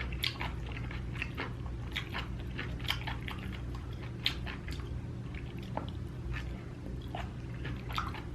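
A person chewing food close to the microphone, with irregular wet clicks and smacks of the mouth.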